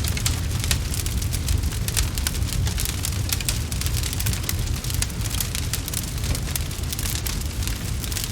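Crackling wood fire: many quick pops and snaps over a steady low rumble.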